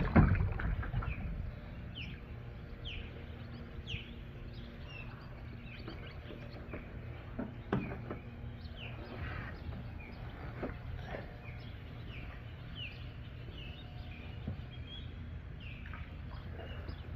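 Small birds chirping: short down-slurred chirps about once a second, over a low steady rumble, with a single knock about halfway through.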